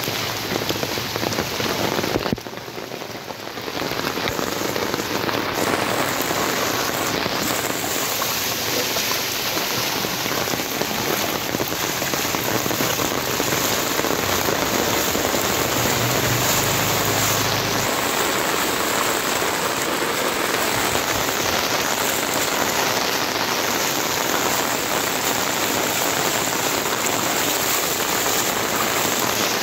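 Heavy rain pouring onto a flooded road and its standing floodwater, a steady dense hiss of drops. For a couple of seconds around the middle, a motorbike's engine hums low beneath the rain.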